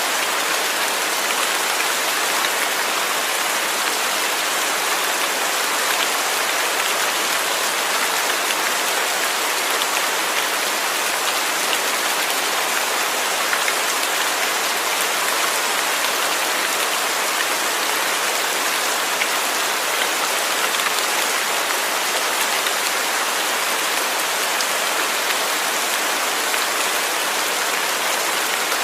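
Steady rain falling, an even hiss with faint individual drops pattering on a surface.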